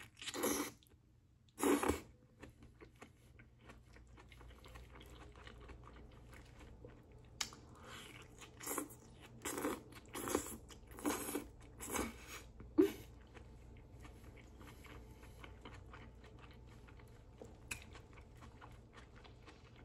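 Close-miked eating sounds: biting into and chewing a burger with grilled onions, wet mouth noises coming in bursts. A couple of bites come early, then a run of chewing bursts in the middle, then quieter chewing near the end.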